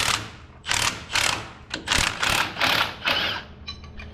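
Hand ratchet wrench swung back and forth to run a bolt out, each stroke a short burst of clicking, about two or three a second. The strokes stop about three seconds in, leaving a few faint clicks.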